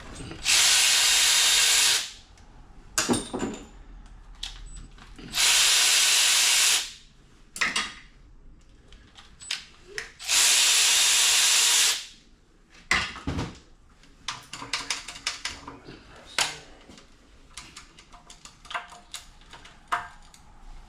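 A power wrench run in three bursts of about a second and a half each, spinning out bolts during an LS engine teardown, with light clinks and clanks of metal parts and tools between the bursts.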